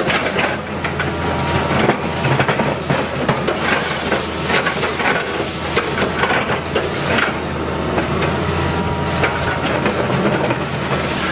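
Excavator-mounted hydraulic pulverizer crushing concrete: dense, irregular cracking and clattering over the steady hum of the excavator's engine.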